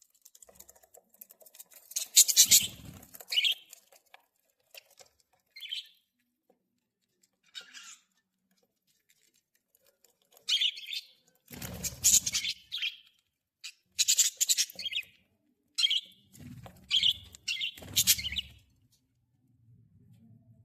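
Budgerigars chirping and chattering in short, irregular bursts with quiet gaps between them, along with occasional low rustling.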